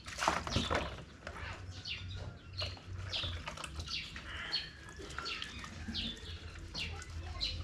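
Chicks peeping: short, high, falling chirps repeated several times a second, with a brief noisy rustle just at the start.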